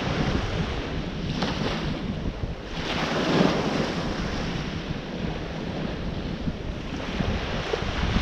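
Ocean surf washing onto the shore, with wind buffeting the microphone. A wave breaks and surges louder about three seconds in.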